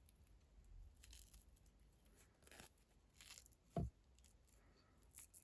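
Faint rustling and small handling noises of hands tying off thread on a hanging craft ornament, with one light knock a little under four seconds in.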